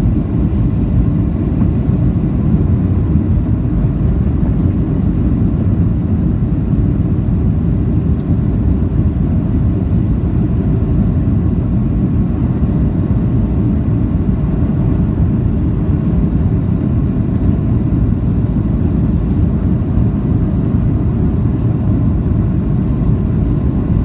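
Steady low cabin rumble of a Boeing 737-800 with CFM56-7B turbofan engines, engine and airflow noise heard from inside the passenger cabin, unchanging throughout.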